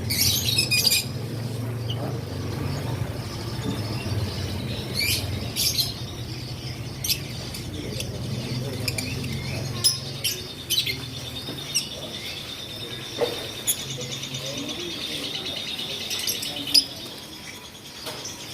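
Caged lovebirds chirping: scattered short, shrill chirps, with a rapid buzzy trill lasting a few seconds about two thirds of the way in. A low steady hum runs underneath.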